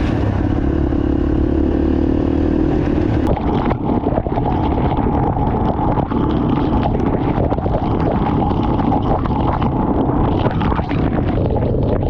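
Motorbike engine running while riding, with rattling and knocks from the bike. The sound changes abruptly about three seconds in and then turns rougher, with many short knocks.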